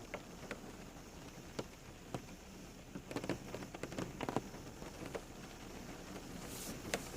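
Rain falling steadily, with individual drops tapping on a surface here and there and a closer, denser run of drips in the middle. A brief high hiss comes near the end.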